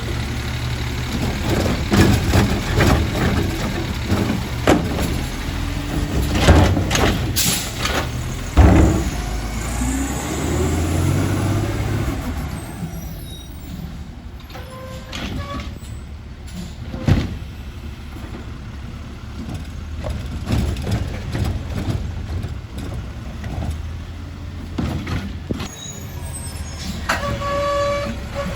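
Refuse truck at work: its engine running, with air-brake hisses and a series of sharp clanks and knocks, and a rising then falling whine about ten seconds in. A brief steady pitched tone sounds near the end.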